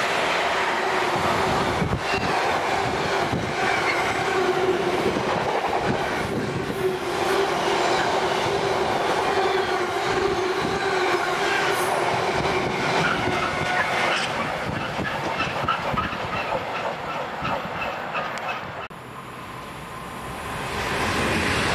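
Intermodal container freight wagons rolling past at speed, a steady rumble with clatter of wheels over rail joints. Near the end the sound drops off abruptly, and the rush of an approaching Class 390 Pendolino electric train rises.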